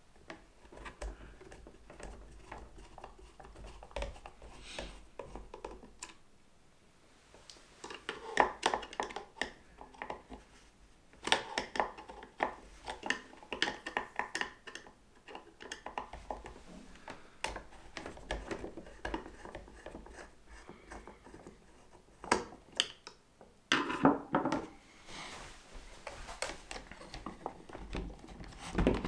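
Screwdriver and hands working small screws out of a plastic model locomotive body: scattered light clicks, scrapes and knocks, coming in clusters with a short lull about six seconds in.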